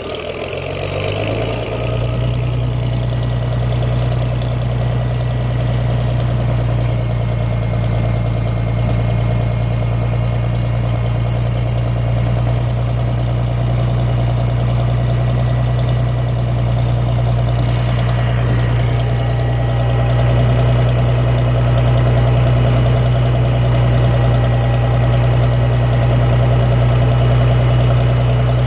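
IHC Farmall 460's six-cylinder gasoline engine catching on a cold start in below-freezing weather. Its speed settles within the first couple of seconds, and it then runs steadily with the choke pulled and the throttle part open.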